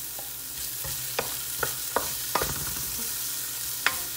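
Shrimp, diced green bell pepper and garlic sizzling in a hot metal pan while a wooden spatula stirs them, knocking and scraping against the pan several times.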